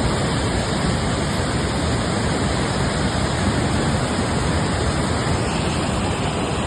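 Steady rushing of a fast-flowing mountain river or waterfall, an even, unbroken roar of water.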